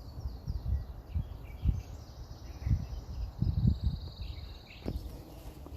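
Birds chirping in quick short calls, with a steady high insect trill from about two seconds in until near the end, over irregular low thumps and rumble from walking with the microphone.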